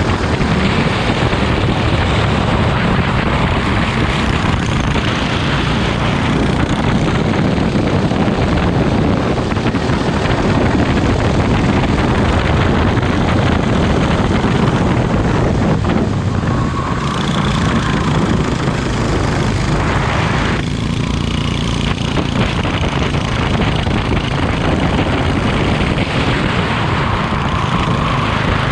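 Go-kart engine running hard at racing speed, loud and steady.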